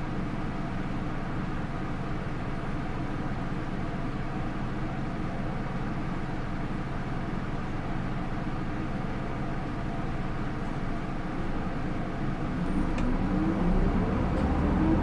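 Interior running sound of a Hino Rainbow II bus, its Isuzu 4HK1-TCH four-cylinder turbodiesel with Aisin automatic transmission: the engine runs at a steady note, then from about twelve seconds in the engine note rises and grows louder as the bus accelerates.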